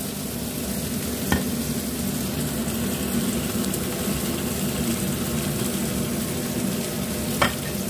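Flour-coated green mussels sizzling steadily in hot oil in a wok, with a short knock about a second in and another near the end.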